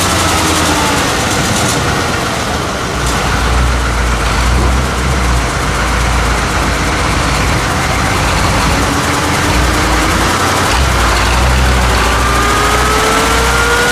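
Off-road truck engine running loudly with a deep rumble, revving up in a steadily rising pitch near the end.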